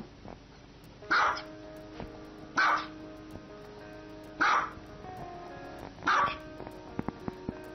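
Small white long-haired dog barking: four sharp single barks, about one every second and a half, over steady background music.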